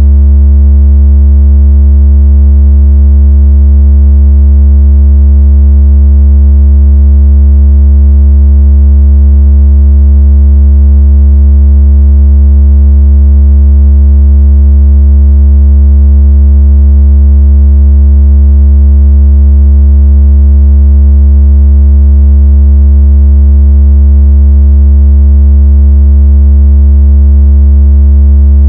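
Continuous, very loud, deep synthesized low tone with overtones above it, held perfectly steady: a speaker-cleaning 'water out of speaker' tone meant to shake water from a phone speaker and make the phone vibrate.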